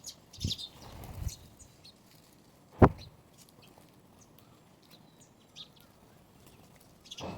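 Small birds chirping in short, scattered calls. A few soft thumps come early, and one sharp loud knock about three seconds in.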